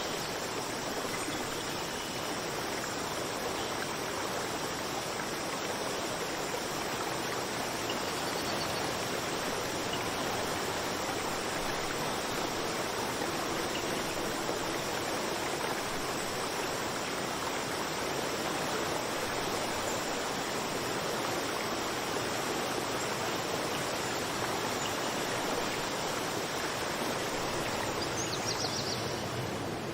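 Running water, a steady rush of stream flow.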